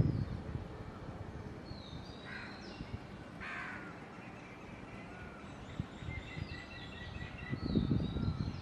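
Wild birds calling outdoors: a few short, harsh calls, then high chirps and a quick run of repeated notes. A low rumble comes at the start and again near the end.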